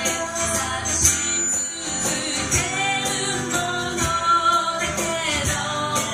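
Live acoustic pop song: a strummed acoustic guitar and hand percussion with male and female voices singing together.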